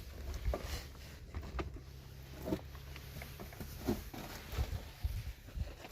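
Scattered light knocks and handling noises, a few per second at irregular intervals, over a low rumble.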